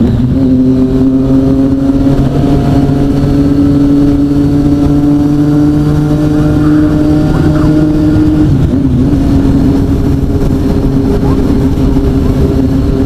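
Motorcycle engine running at steady, fairly high revs, a constant drone with a rushing noise underneath; the pitch dips briefly a little past halfway, then holds again.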